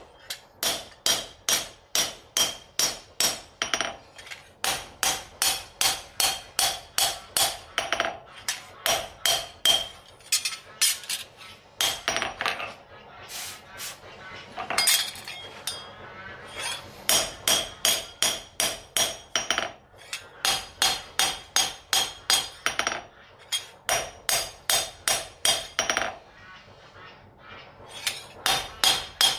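A hammer striking steel on an anvil while forging a knife blade: steady ringing blows at about three a second, broken by a few short pauses.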